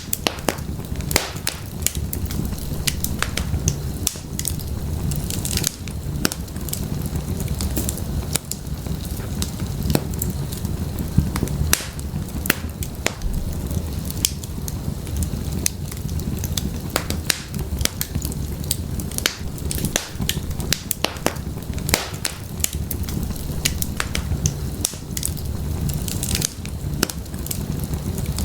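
Wood fire crackling and popping in a fireplace: frequent irregular sharp snaps over a steady low rumble of the flames.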